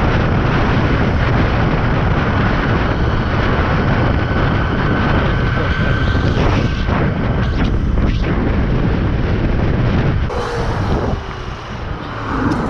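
Heavy wind rushing over the microphone during a high-speed ride on a 72-volt electric mini bike, with a faint high whine that rises slightly in pitch over the first six seconds. The rush eases off about eleven seconds in.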